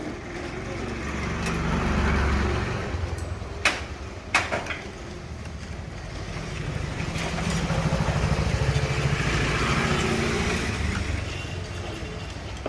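Motor vehicle engines passing by twice, each a low rumble that swells and fades, with two sharp knocks in between.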